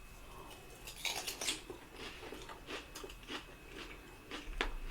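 A person chewing food close to the microphone, with soft mouth clicks and smacks at an irregular pace.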